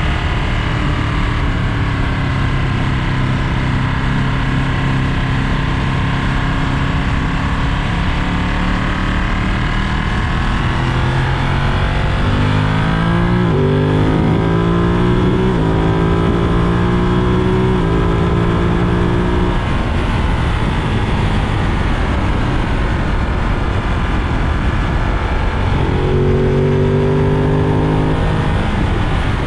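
Ducati Monster 937's 937 cc V-twin under way with wind noise, accelerating hard around the middle, its pitch climbing and stepping through several quick upshifts on the quickshifter, then settling before rising again near the end.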